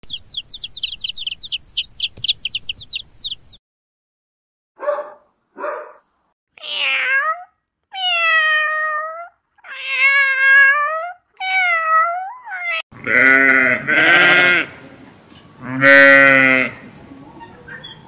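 A duckling peeping in a rapid run of high chirps, then a cat meowing about half a dozen times, then sheep bleating three times with a quavering call.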